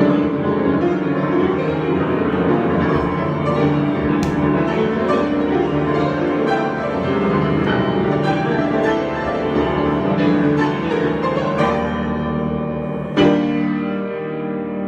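Improvised piano music: dense, ringing chords and notes held together, with a loud accented chord about 13 seconds in that rings on and slowly fades.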